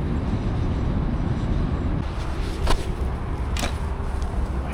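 Steady low rumble of road traffic, with two brief light clicks about two and a half and three and a half seconds in.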